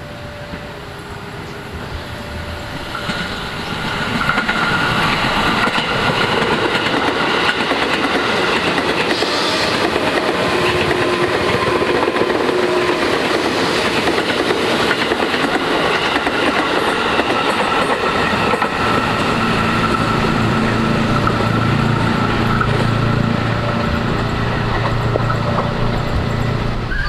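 Train passing on the rails, growing louder over the first few seconds into a steady rumble with wheels clattering over rail joints. A low engine drone joins about two-thirds of the way through.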